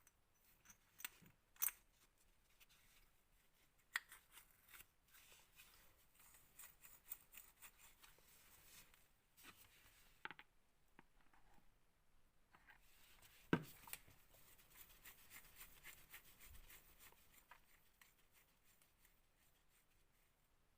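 Faint, scattered small clicks and taps of metal engine parts being handled as the crankshaft of a Thunder Tiger Pro 21 nitro engine is fitted into its oiled crankcase. A sharper knock comes about thirteen seconds in.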